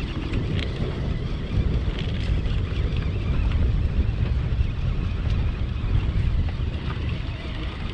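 Wind buffeting the microphone: a steady, fluctuating low rumble with a lighter hiss above it.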